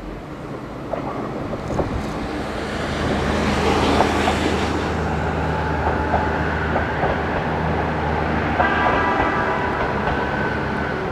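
Diesel railcar passing slowly close by: the engine runs with a steady low hum and the wheels click over the rail, loudest about four seconds in. A steady high ringing tone joins about two and a half seconds before the end.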